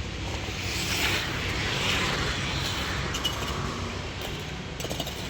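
Excavator's diesel engine running steadily, with a hissing, scraping noise that swells about a second in and fades out by about three seconds, then a few short clicks and knocks near the end.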